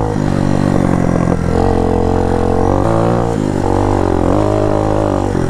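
Dirt bike engine running while riding, its drone holding a steady pitch and then shifting up or down several times as the revs change.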